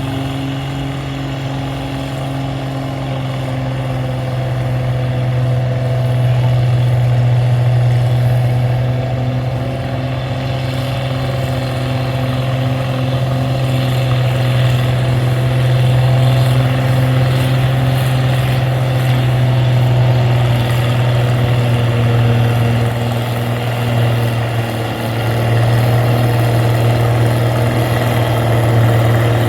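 Oliver 88 tractor's six-cylinder engine running hard at steady speed under load, pulling the sled. It grows louder over the first several seconds, dips briefly about four-fifths of the way through, then picks back up.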